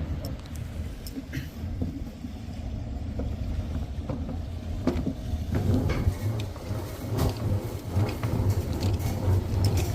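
Steady low rumble aboard a sailing yacht under way, with scattered knocks and clicks from the boat; the rumble grows stronger about halfway through.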